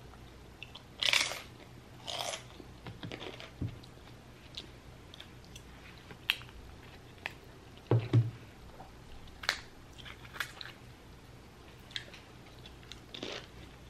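A person eating close to the microphone: chewing and crunching food, with scattered clicks and scrapes of a fork in a takeout bowl. A dull thump comes about eight seconds in.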